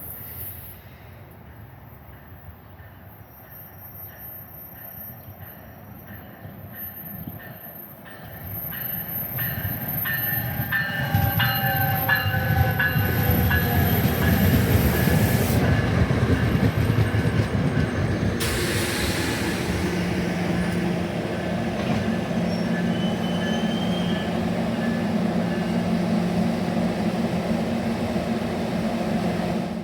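Train approaching and running through a station: a faint rumble that grows loud about eight seconds in and stays steady, with thin high wheel-squeal tones for a few seconds and a steady low hum setting in later.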